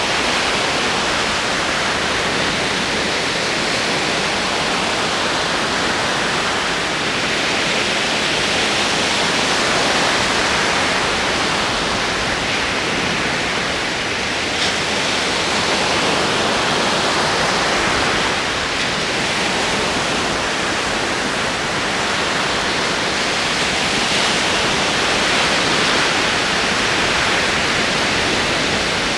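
Ocean waves rolling onto a shore: a continuous rushing wash of surf that swells and eases every few seconds.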